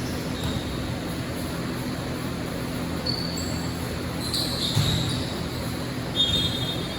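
Indoor basketball game: a ball bouncing on the court and a few short high squeaks over a steady hum of crowd noise in the hall.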